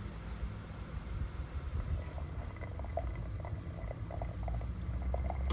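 A pot of liquid bubbling at a boil over a campfire: many small irregular pops over a low, steady rumble, the bubbling getting busier after a second or so.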